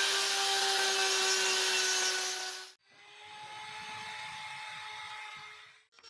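A high-speed power tool carving wood, running with a steady whine over a hiss of cutting. It cuts off abruptly about three seconds in, then a quieter stretch of the same kind of running follows and stops abruptly near the end.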